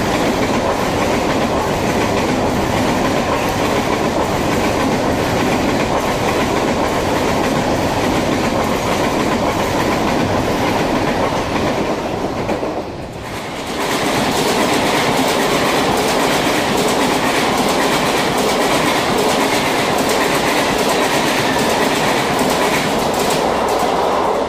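Mumbai Central Railway fast local electric trains (EMUs) running through station platforms at full speed without stopping: a loud, steady rush of wheels on rails. The noise dips briefly about halfway, and then a second train passes.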